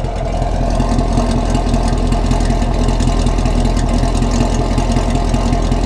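2019 Chevrolet Camaro SS's 6.2-litre LT1 V8 idling steadily, with the factory dual-mode exhaust valves open in track mode.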